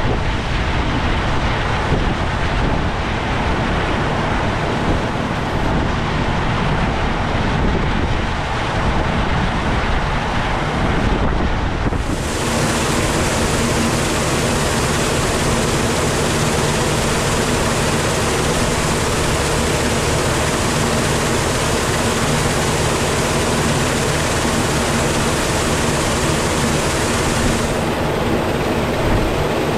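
Farm machinery running steadily, with wind buffeting the microphone. About twelve seconds in, a brighter hiss and a steady low hum start abruptly, and the top of the hiss drops away near the end.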